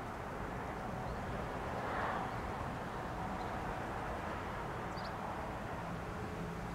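Steady low vehicle rumble, with a brief swell about two seconds in.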